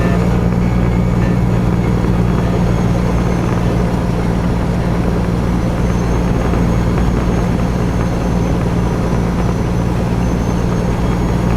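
Peterbilt 389 semi truck's 550 hp diesel engine pulling at a steady speed: a deep, even drone that holds without a gear change or rev swing.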